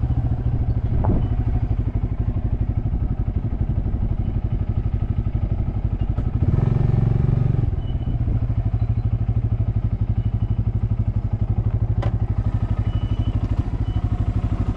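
Motorcycle engine running with an even, pulsing beat, given a short burst of throttle about halfway through before settling back. A single sharp click sounds near the end.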